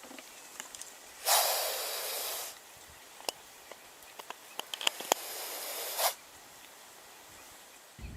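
An animal hissing twice, each hiss a little over a second long, with light clicks in between.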